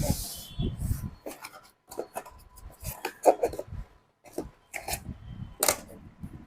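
Cardboard box and packaging of a soundbar being opened and handled: irregular rubbing, scraping and rustling broken by sharp taps, the sharpest about three-quarters of the way through.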